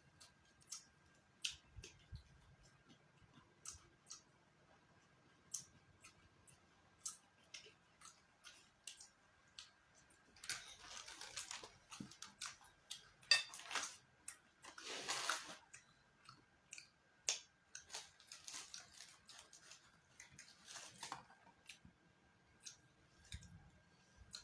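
Close-miked eating sounds: many short wet clicks and smacks of a mouth chewing, with a few longer scratchy bursts in the middle of the stretch.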